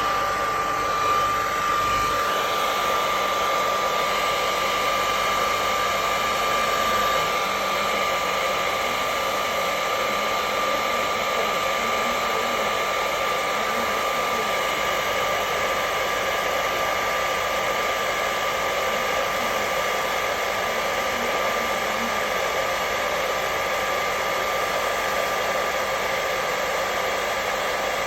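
Hair dryer running steadily: an even rush of air from the fan with a steady high whine from its motor, unchanging throughout.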